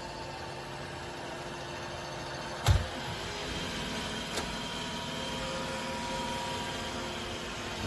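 Robot vacuum running with a steady motor hum, with a single thump about three seconds in and a light click a little later.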